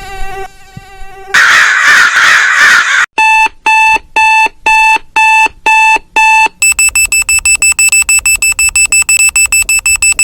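A series of harsh electronic sounds one after another: a short burst of loud hiss, then a loud beeping alarm at about two beeps a second, then a higher-pitched beep pulsing rapidly several times a second.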